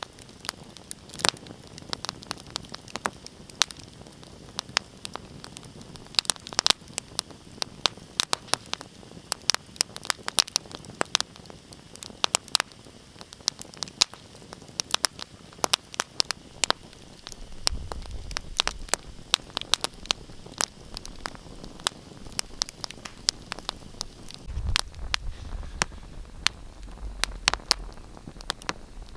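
Wood fire crackling, with dense, irregular sharp pops and snaps over a soft hiss. A low rumble swells up twice in the second half.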